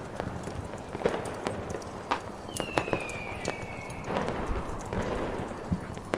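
Ambience mix of a crackling fire and scattered fireworks pops over a steady hiss of storm wind, with irregular sharp cracks throughout and one whistle falling in pitch about two and a half seconds in.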